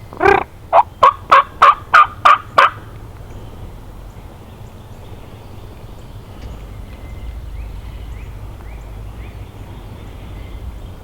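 A run of eight loud turkey yelps, a longer first note and then seven short evenly spaced ones at about three a second, ending under three seconds in.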